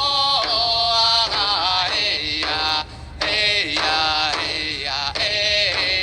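Eskimo dance song: voices chanting in short phrases with sliding pitch, broken by a brief pause about three seconds in.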